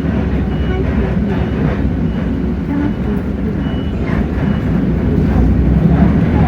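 Hino J08E-VN inline-six turbodiesel of a city bus running under way, heard as a steady low rumble that grows a little louder after about four seconds.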